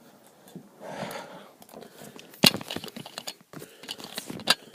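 Handling noise as a camera and its mount are adjusted by hand: scattered clicks, knocks and rustling, with a sharp click about two and a half seconds in and another near the end.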